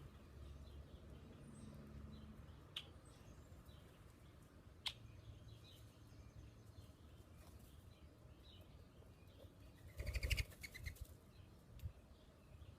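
Faint bird chirps in quiet surroundings, with a couple of sharp clicks. About ten seconds in comes a short, loud flurry of wingbeats as a bird flies off.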